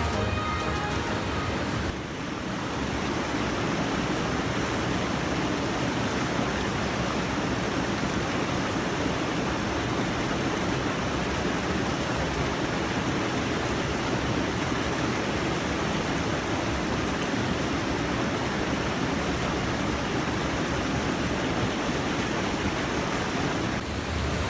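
Steady rushing of stream water spilling over a small check dam (weir). Background music dies away about two seconds in.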